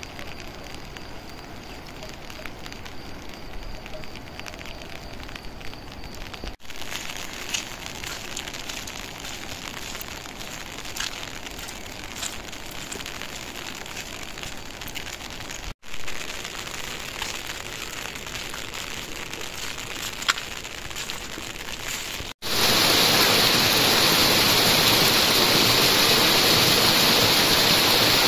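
Monsoon rain falling steadily, with scattered drops ticking on nearby surfaces, across several cut-together shots. About three-quarters of the way through it switches abruptly to a louder, even rushing noise.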